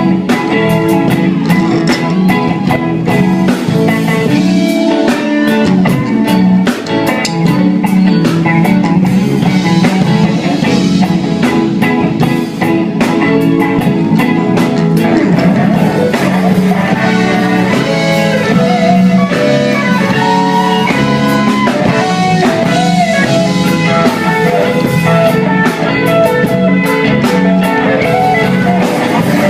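Live band playing an instrumental passage, guitar to the fore over a drum kit.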